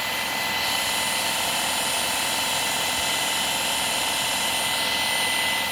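Shark PowerDetect IP1251 cordless stick vacuum running on a floor: a steady motor whine with a constant high hiss, which gets a little brighter about a second in.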